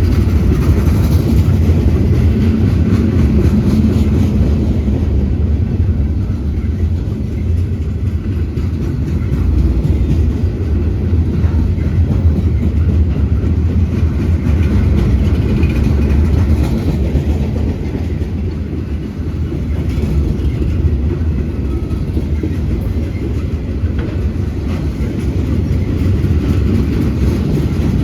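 Freight unit train loaded with pipe rolling past, a steady low rumble with faint clicking of the wheels over rail joints.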